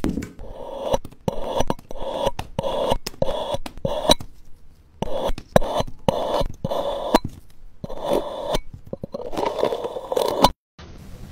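Repeated scraping strokes, about two a second, with a couple of short pauses, cutting off suddenly near the end.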